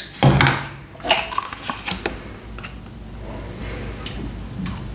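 Crunching and chewing of a baked ginger biscuit held close to the mouth: a few sharp, crisp crunches in the first two seconds, then softer scattered chewing clicks.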